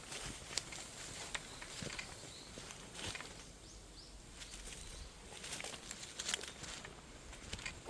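Irregular rustling and crackling of dry bamboo leaves and twigs, in short uneven crunches.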